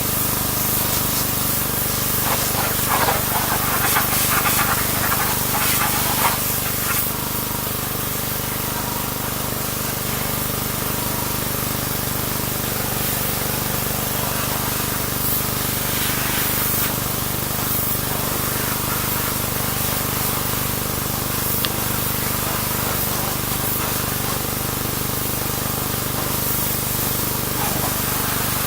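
Pressure washer running with a steady hum, its spray hissing against the car's engine bay, heavier and more uneven in the first several seconds, then steady.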